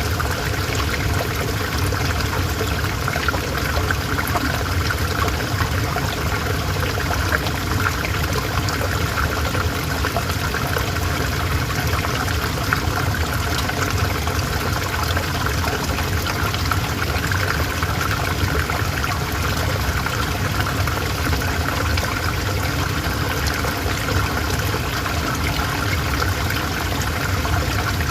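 River water flowing and trickling steadily over stones, a continuous babble of water.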